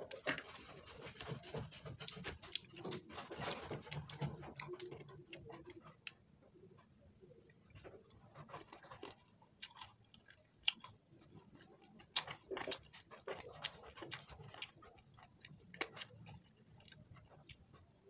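Close-up chewing and crunching of crispy fried chicken, with irregular clicks and taps of a plastic spoon against a paper food box, over a faint steady high-pitched whine.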